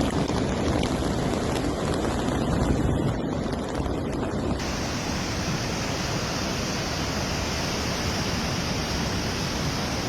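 Steady rush of a river in flood, with wind noise on the microphone. About four and a half seconds in the sound cuts abruptly to another recording of the same kind of rushing water.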